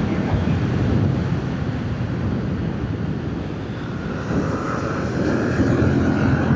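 Yamaha MT-07's 689 cc parallel-twin engine with stock exhaust running under way, mixed with wind rush. The engine eases off about three to four seconds in, then picks up again.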